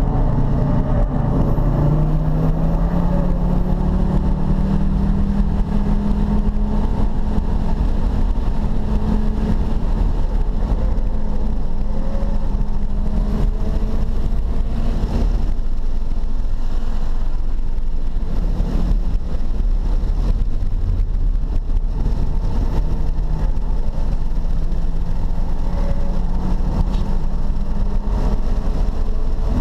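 Car engine pulling hard under acceleration, heard from inside the cabin over heavy wind and road noise. The engine note climbs for several seconds, falls away around the middle, and climbs again near the end.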